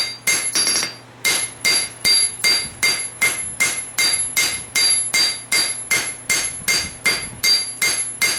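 Hammer blows on a hot farrier-rasp blade over an anvil, each strike ringing, at a steady rhythm of about three a second, with a brief pause about a second in. The steel is being drawn out and thinned into a machete blade.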